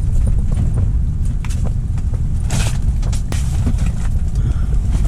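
Strong wind buffeting the microphone as a steady low rumble, with scattered light clicks and knocks and a brief hiss about two and a half seconds in.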